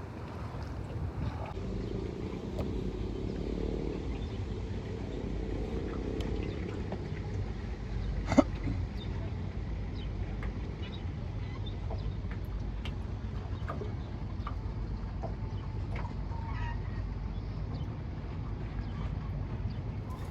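Small outboard boat motor, a Gladiator 9.9, running with a steady low rumble. Light scattered knocks come through, and one sharp click about eight seconds in.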